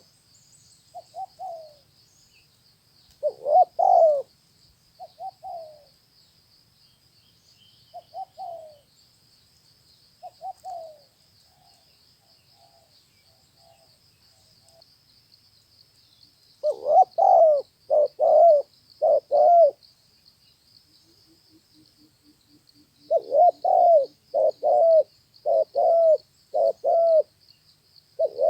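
Spotted dove cooing. Spaced-out single and double coos come first, then quick runs of three to five coos in a row about halfway through and again near the end. A steady high-pitched buzz runs underneath.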